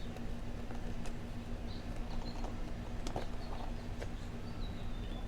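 A few light clicks and taps of plastic motocross boot buckles being pressed and fitted, with faint high squeaks, over a steady low hum.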